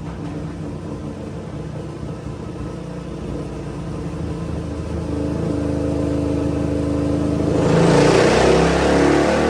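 Suzuki DRZ400's single-cylinder four-stroke engine running on a dyno through an MRD exhaust, holding steady revs and slowly getting louder. About eight seconds in the throttle opens wide and the engine gets much louder and starts to climb in revs, as in a dyno pull.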